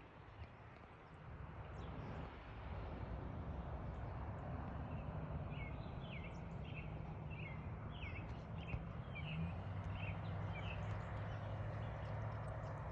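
Outdoor evening ambience with a steady low hum, over which a bird calls a series of about eight short, high chirps in the middle.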